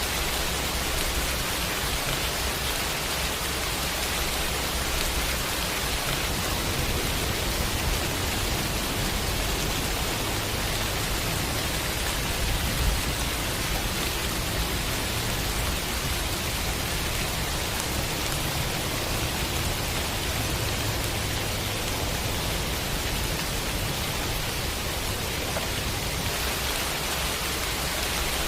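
Steady rain falling as an even hiss with no let-up, with a low rumble underneath that swells and fades slowly.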